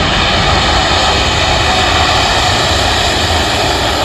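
Airbus A350-1000's Rolls-Royce Trent XWB turbofans during a slow, low flyby: a loud, steady jet rush with faint steady whining tones.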